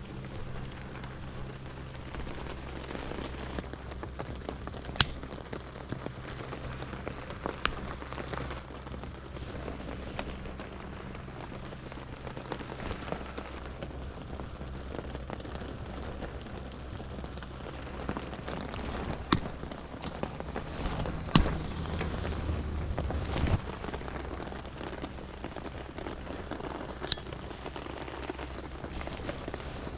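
Steady rain falling, with a few sharp clicks or snaps scattered through it.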